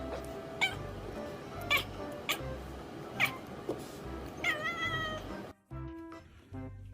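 A cat gives several short, sharp calls that fall in pitch, roughly a second apart, then a longer meow about four and a half seconds in. Background music with a steady low beat plays throughout.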